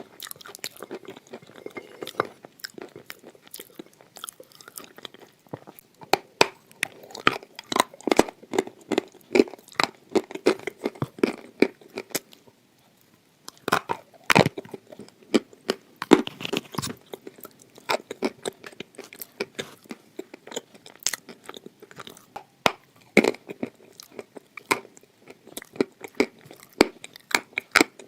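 Crunching and chewing of hard red edible clay (khawa): dense, irregular crackly bites and chews, with a short pause a little under halfway through and loud crunches just after it.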